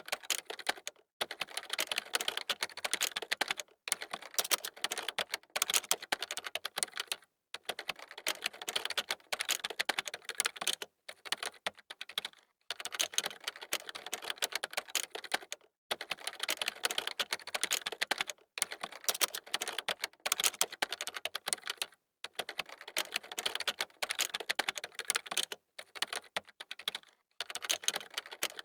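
Fast typing on a computer keyboard: quick runs of key clicks lasting a few seconds each, with brief pauses between them.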